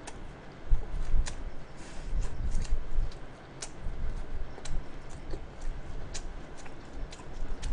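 A person chewing food close to the microphone: irregular small clicks and crackles from the mouth.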